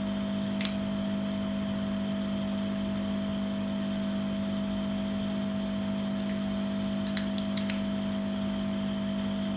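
A steady low hum with a fainter higher tone over it runs under a few light clicks, one about half a second in and a small cluster about two-thirds of the way through, as small phone parts are pressed and fitted into place by hand.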